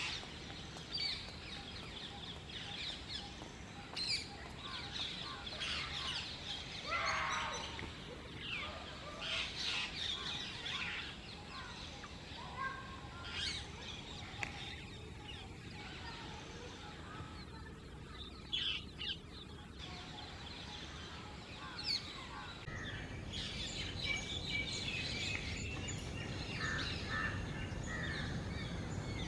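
Birds calling and chirping in short, varied calls over a steady outdoor background noise, which grows louder about three-quarters of the way through.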